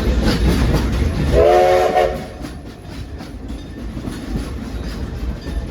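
Steam train running with a rumble and rail clatter, and one short whistle blast of under a second about a second and a half in. After the whistle the running noise drops and continues more quietly.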